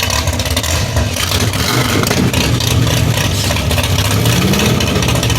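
Lifted truck engine running loud, rising in pitch as it revs about four seconds in.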